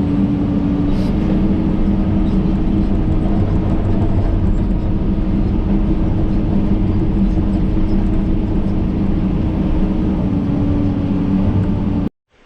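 John Deere 130G excavator's diesel engine running steadily, with a steady whine whose pitch steps up slightly about a second in and drops back near the end. The sound cuts off abruptly just before the end.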